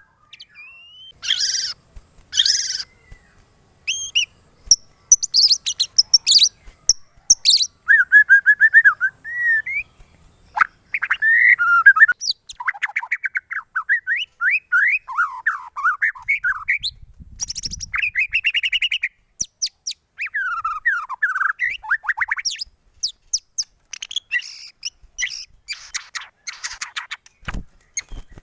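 White-rumped shama (murai batu) singing a long, varied song of loud whistles, rising and falling glides, rapid trills and sharp chirps in quick phrases with short pauses. It is the kind of full, excited song used to provoke a caged murai batu into answering.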